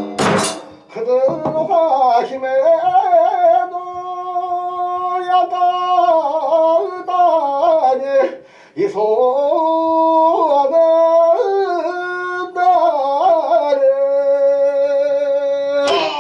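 A single voice sings a long drawn-out kagura chant in two long phrases, the pitch wavering and sliding in ornamental turns on each held note, with a short breath in the middle. Sharp drum strikes sound just at the start and again right at the end.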